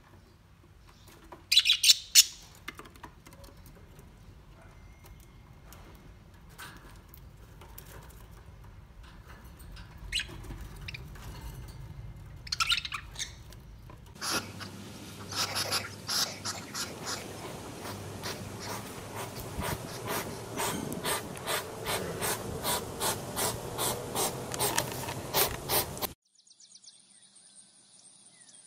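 Budgerigars chirping and chattering: a couple of sharp loud chirps about two seconds in, scattered calls, then a long run of quick repeated chirps in the second half that stops abruptly a couple of seconds before the end.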